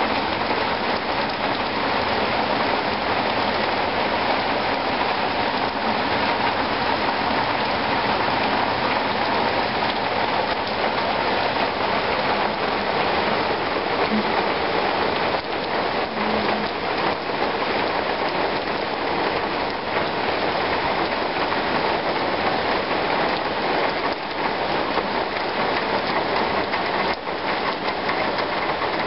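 Steady heavy rain falling on leafy trees, an even hiss of countless drops that keeps the same level throughout.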